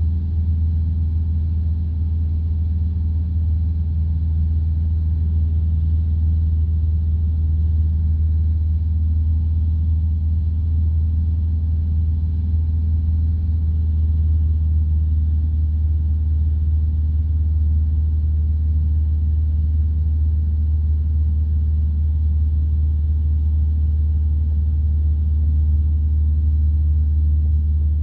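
Light aircraft's piston engine and propeller droning steadily in the cabin during flight, a deep even hum with no change in power.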